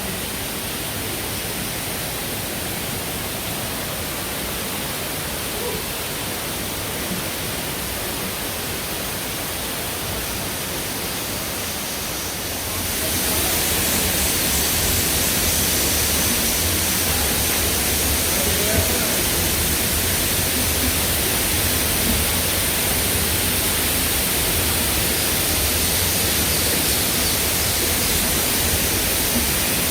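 Steady rushing of falling water from a waterfall, growing louder about twelve seconds in.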